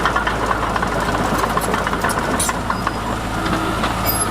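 An engine running steadily at a low, even pitch, with faint voices behind it.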